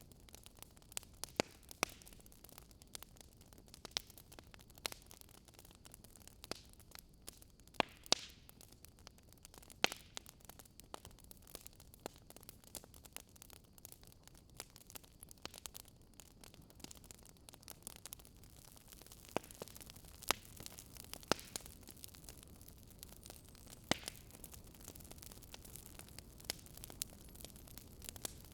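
Wood fire burning in a fireplace: sharp, irregular crackles and pops over a faint steady hiss.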